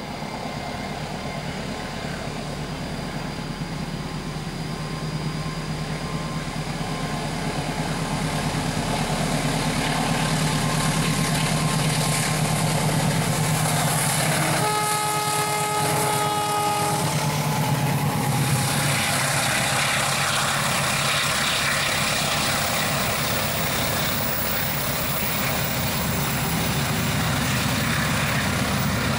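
Diesel locomotive hauling a passenger train, its engine a steady low drone that grows louder as it approaches. About halfway through, its horn sounds once for about two seconds as a chord of several tones. After that the wheels and coaches on the rails add a rushing rumble.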